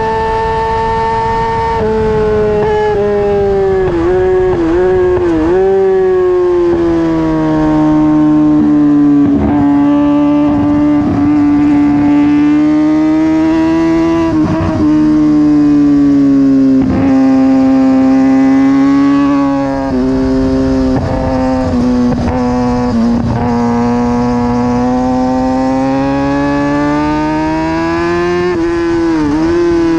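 2009 Kawasaki ZX-6R's inline-four engine running hard at high revs on a race track. Its pitch falls about two seconds in, then holds steady with several quick dips and recoveries as the throttle and gears change.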